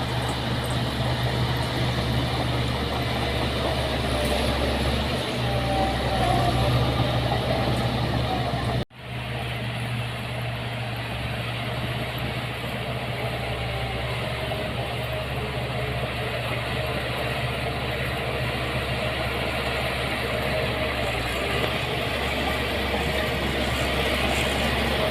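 Heavy construction machinery's diesel engine running steadily. About nine seconds in, the sound drops out for an instant and comes back slightly quieter.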